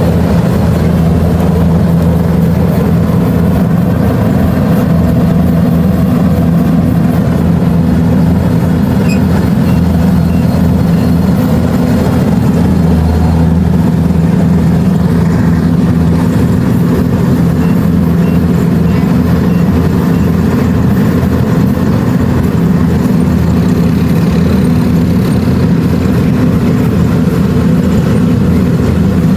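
Kubota DC-70 Plus rice combine harvester running, its diesel engine giving a loud, steady drone.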